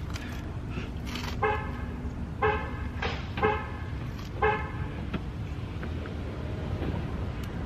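A car horn tooting five short times, roughly once a second, over a steady outdoor hum.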